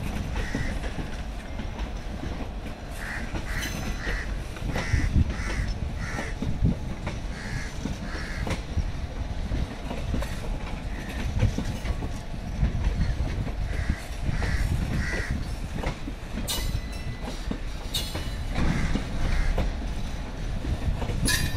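Railway coaches rolling past at speed: a steady rumble of wheels on rail with occasional sharp clicks over the joints. Crows caw repeatedly over it.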